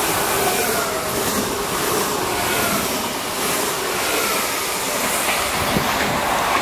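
NSB Class 75 Stadler FLIRT electric multiple unit running past close by, a steady rush of rolling noise with faint whining tones that slide in pitch and short repeated wheel clicks. A sharp knock sounds near the end.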